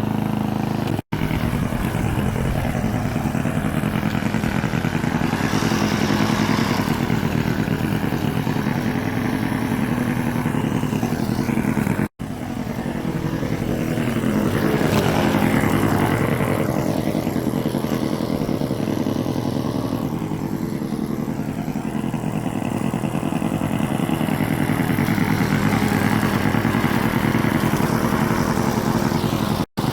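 Lawn mower engine running steadily while cutting grass, broken by three brief dropouts where the recording cuts.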